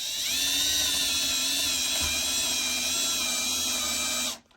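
Power drill running steadily while boring a pilot hole for a screw into scrap wood; the motor whine rises briefly as it spins up, holds, and stops suddenly near the end.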